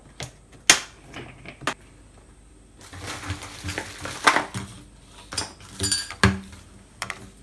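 The top cover of a wet and dry vacuum being seated on its stainless steel tank and closed up: a series of sharp clicks and clatters, with a stretch of rustling handling noise in the middle.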